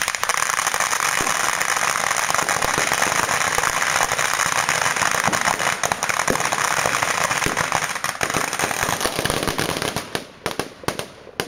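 Fireworks crackling: a dense, rapid stream of sharp cracks that thins out to a few separate cracks near the end.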